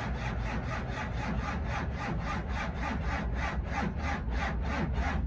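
Starter slowly cranking a cold 12-valve Cummins diesel in a rhythmic grind of about four or five compression pulses a second, without it firing. It is a cold start at 14 °F with no grid heater or block heater, on a weak battery.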